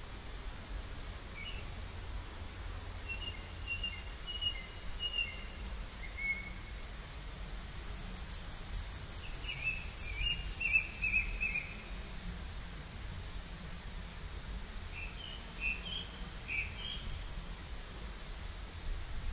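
Small birds chirping on and off in short phrases, with a rapid high-pitched trill about eight seconds in that lasts some three seconds, over a steady low outdoor rumble.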